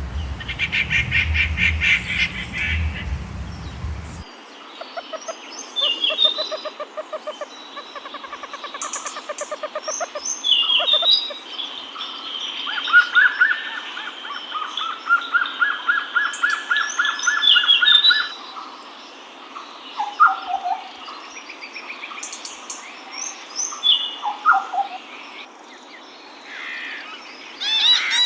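Several birds calling and singing in a mix of fast trills, runs of repeated chirps and short falling whistled notes at varied pitches. A low-pitched background runs under the first four seconds and cuts off suddenly.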